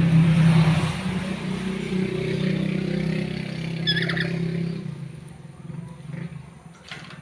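A motor vehicle engine running steadily, then fading away about five seconds in. A short high call cuts through about four seconds in.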